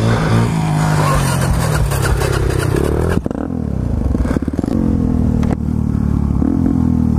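Small dirt bike engine running hard while riding. The revs fall over about three seconds, then rise and fall again.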